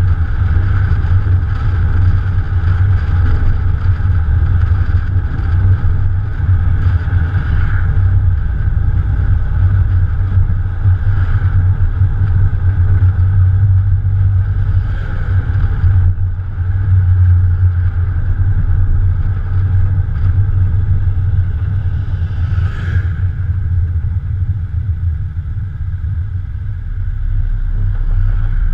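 Morgan Plus 4's Ford 2.0-litre four-cylinder engine running steadily under way, picked up together with road and air noise by a camera on the bonnet.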